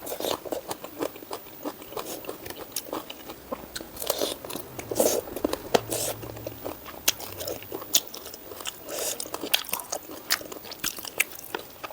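A person chewing and smacking a mouthful of food close to the microphone: many irregular sharp wet clicks and short crunchy bites.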